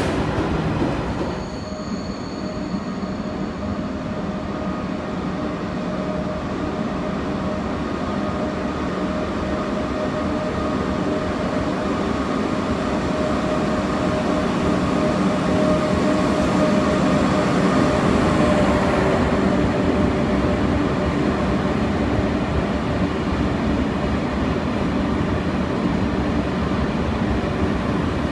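Single-deck TGV high-speed trainset coming slowly along the platform: a steady rumble of wheels and running gear with a steady whine on top, growing louder as it nears and holding level for the last third.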